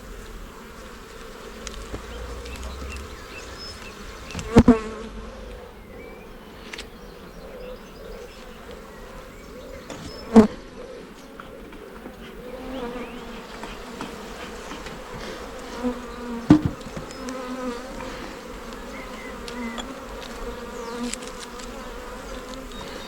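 Honey bees buzzing steadily around an open hive, with three sharp louder moments about six seconds apart.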